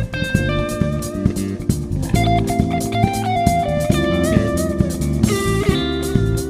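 Soul band playing an instrumental passage: a lead guitar melody with bent notes over bass guitar and a drum kit keeping a steady beat.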